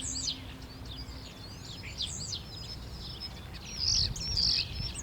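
European starlings calling: quick high whistles that sweep up and down, in several short bursts, with the loudest cluster about four seconds in.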